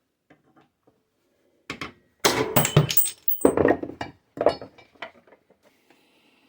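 A handful of metal knocks and clinks with short ringing, bunched in the middle: tools working the old, bent pivot pin out of the ride-on train's pedal handle held in a vise.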